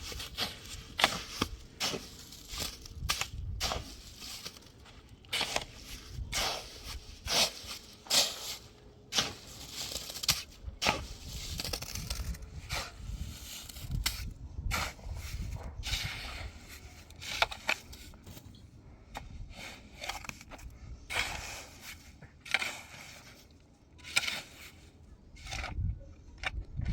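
Irregular knocks and scrapes of manual building work, roughly one or two sharp strikes a second.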